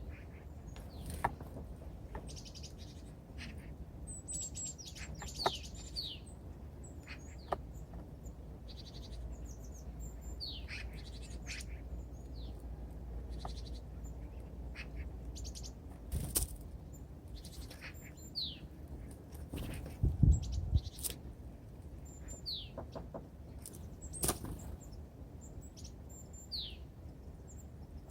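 Small birds at a feeder giving short, falling chirps every few seconds, mixed with sharp taps and clicks, and a low thump about two-thirds of the way through.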